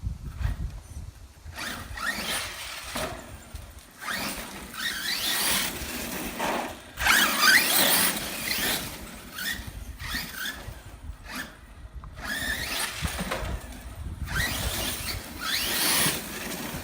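Arrma Kraton 1/8 RC monster truck's brushless electric motor whining in repeated bursts of throttle, pitch rising and falling, with tyre and drivetrain noise. The loudest burst comes about halfway through.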